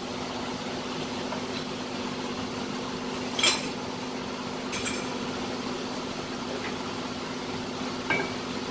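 A steady mechanical hum with a few sharp metallic clinks of tools on top, the loudest about three and a half seconds in and two fainter ones later.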